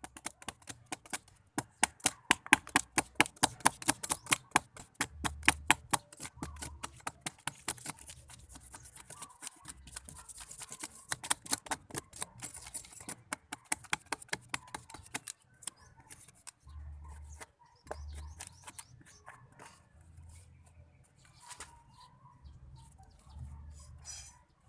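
Quick, sharp scraping or chipping strokes of a hand tool against soft coconut wood, about five a second, thinning out after about fifteen seconds.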